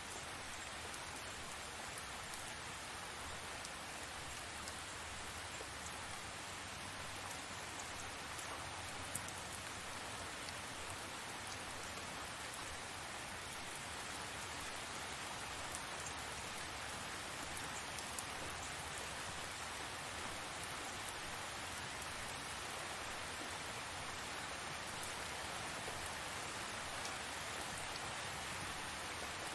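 Steady heavy rain falling, an even hiss of drops with scattered faint drip ticks and one sharper tick about nine seconds in.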